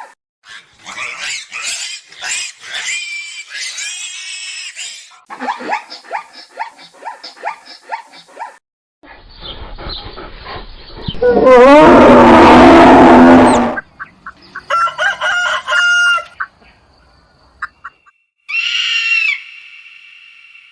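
A series of different animal calls, one clip after another. The loudest is a single long call lasting about two and a half seconds, about eleven seconds in.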